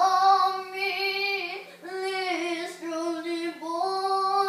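A child's high voice singing a few long held notes, wordless or near-wordless, with brief breaks between them and a dip to a lower note in the middle.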